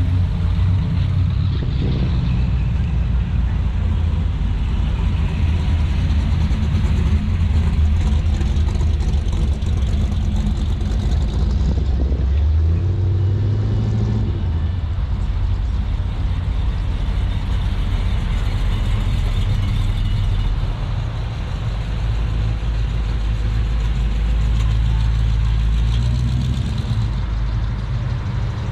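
Car engine running at low speed, a steady low rumble that dips slightly about two-thirds of the way through.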